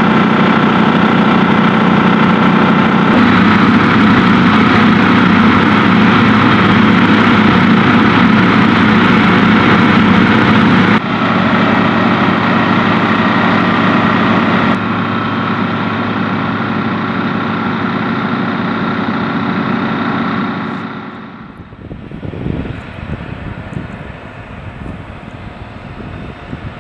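Loud, steady aircraft engine noise with several held tones over a rushing background, stepping abruptly between levels a few times. About 21 seconds in it falls away to a quieter, rougher rumble.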